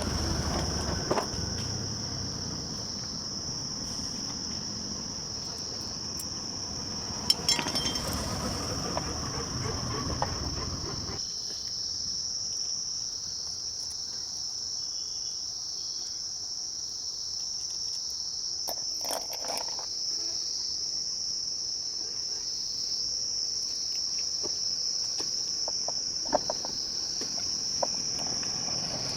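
Insects trilling steadily on one high tone, with a few sharp clicks scattered through it. A low background rumble cuts off about eleven seconds in.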